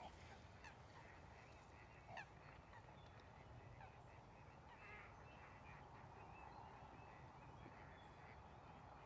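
Faint, distant geese honking a few times over quiet lakeside ambience.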